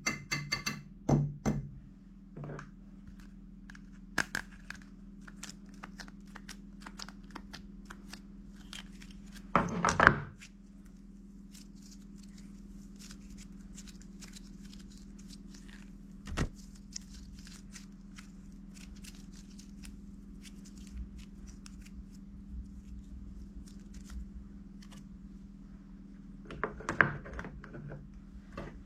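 Irregular knocks and clicks over a steady low hum in a small room, with louder clusters of knocks about a second in, around ten seconds and near the end.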